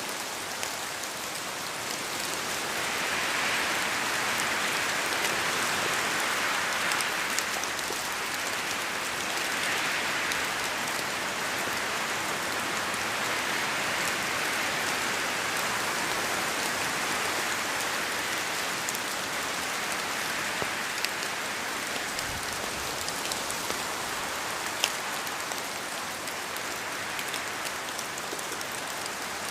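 Steady rain with wind, a continuous hiss dotted with sharp individual drop hits; the sound swells twice in the first ten seconds or so.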